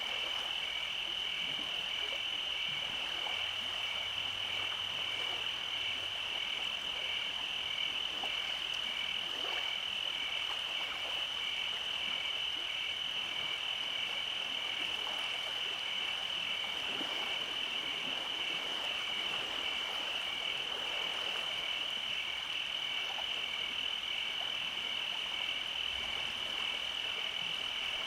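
Nighttime chorus of frogs and insects: a steady high-pitched trilling drone with a faster pulsing call just beneath it, and many scattered frog croaks throughout.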